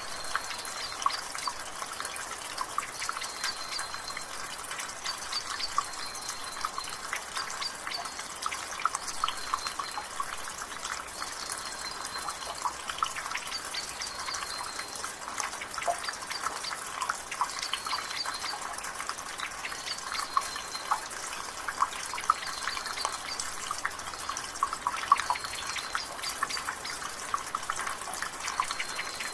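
Water dripping and trickling from a rain gutter in drizzle: a steady, dense patter of drips. A bird repeats a short high call every second or two.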